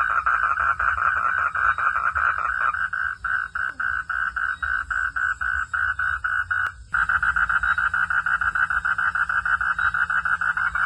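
A chorus of frogs calling at night in a fast, steady train of pulses, thinning for a few seconds in the middle. A brief click and dropout come about two-thirds of the way through.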